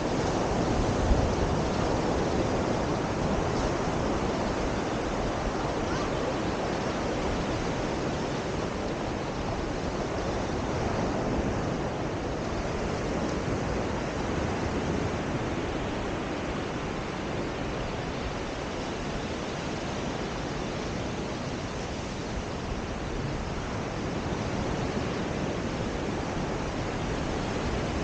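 Steady beach ambience: ocean surf washing in, with wind rumbling on the microphone.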